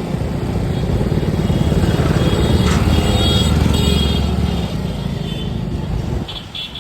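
Motorcycle engine running, growing louder to a peak midway and then dropping away about six seconds in.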